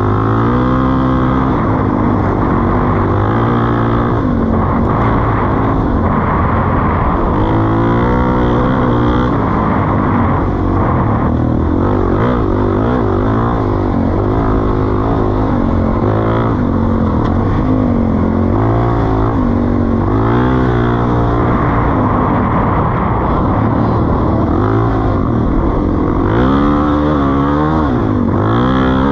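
Suzuki DR-Z400E single-cylinder four-stroke engine running through a Pro Circuit T-4 exhaust. Its pitch rises and falls again and again as the throttle is opened and closed.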